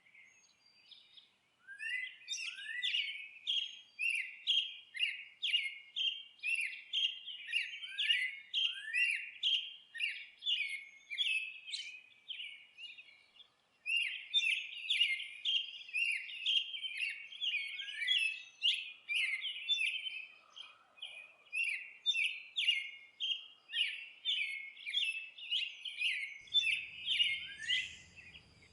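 A songbird chirping in rapid, repeated short notes, about two or three a second, in two long runs with a brief pause about halfway.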